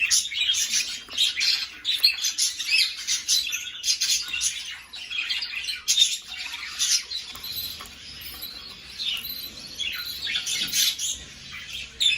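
A pair of budgerigars chattering, a quick, unbroken run of short high chirps and warbles, busiest for the first seven seconds or so and thinning out after.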